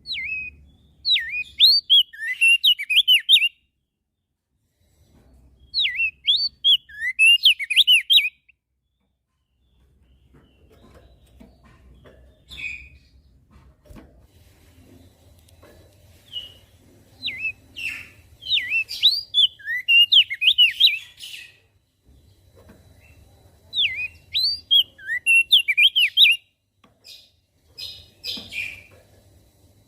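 Crested white-eye (opior jambul) singing: rapid phrases of quick sweeping chirps, each a few seconds long, repeated four times with short pauses and a few shorter calls between.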